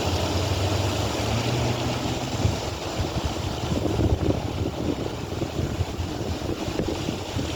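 A low, steady engine-like drone for the first couple of seconds, then uneven low rumbling of wind buffeting the microphone over a steady outdoor hiss.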